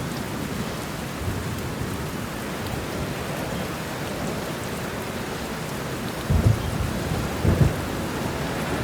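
Steady rain falling during a thunderstorm, with thunder rumbling low. Two short, louder low booms of thunder come about six and a half and seven and a half seconds in.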